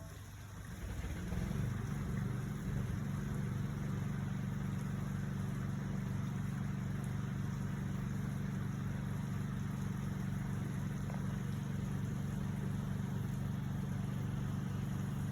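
A motor starts up about a second in and then runs steadily with a low, even hum.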